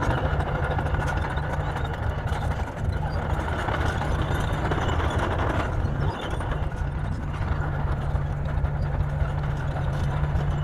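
Bulldozer's heavy diesel engine running steadily, with a brief dip in level about six seconds in.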